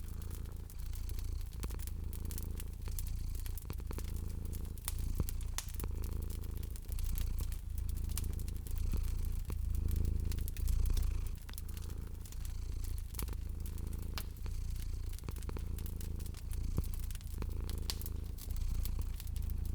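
A cat purring, a low purr that swells and fades in a slow, even rhythm. Over it, a fireplace fire crackles with frequent sharp pops and snaps.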